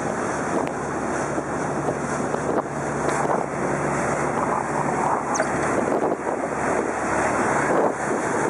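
Wind buffeting the microphone on the open upper deck of a moving water taxi, over the steady hum of its engine and water rushing past the hull.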